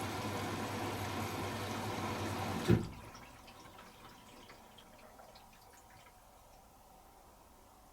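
Hoover H-Wash 300 Plus washing machine running with a steady hum, which stops with a single loud clunk a little under three seconds in. Faint drips and trickles of water follow.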